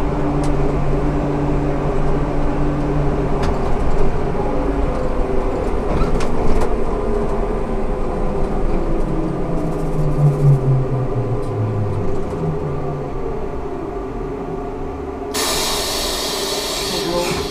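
Ikarus 280T trolleybus running, its electric drive giving a steady whine whose pitch falls about ten to twelve seconds in as it slows. A loud hiss of air starts suddenly near the end.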